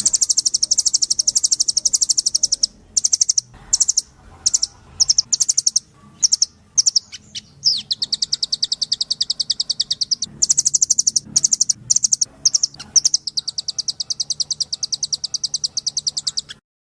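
Blue nuthatch (Sitta azurea) calling in rapid high trills, the notes repeated in runs broken by short pauses.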